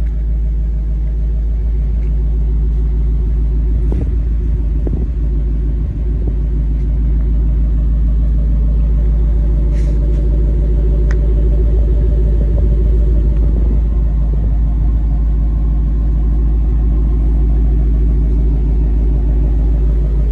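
Car engine idling steadily on a cold start, after two months parked.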